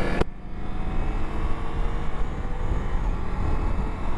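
Wind rumbling over the microphone of a rider on a Ducati motorcycle at road speed, with the engine running underneath and rising slightly in pitch. A short click comes just after the start.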